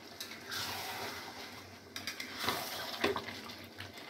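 Chicken curry sizzling in a steel kadhai with a little water just added, as a steel spatula stirs and scrapes through it, knocking against the pan a couple of times in the second half.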